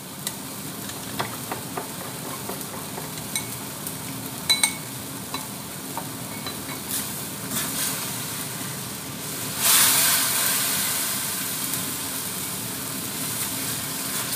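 Sliced tomatoes sizzling in hot oil in a wok as a spatula stirs them, with a few light metallic clinks in the first few seconds. The sizzle swells suddenly about ten seconds in, then slowly eases.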